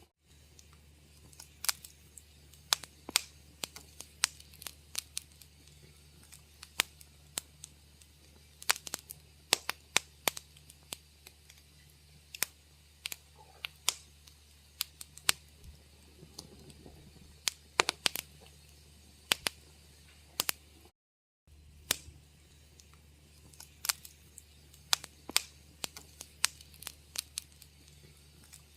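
Wood fire crackling, with irregular sharp pops and snaps over a steady low hum. The sound cuts out for about half a second roughly two-thirds of the way through.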